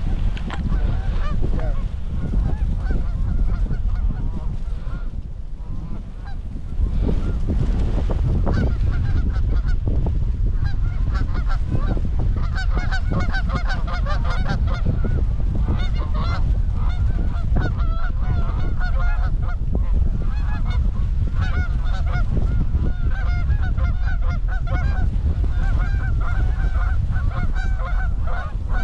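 Goose honks and clucks, many short calls overlapping in quick succession from about eight seconds in, over heavy wind noise buffeting the microphone.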